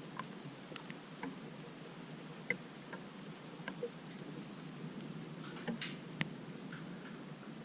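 Light rain falling steadily, with single drops ticking sharply and irregularly close to the microphone, a small flurry of them near the end.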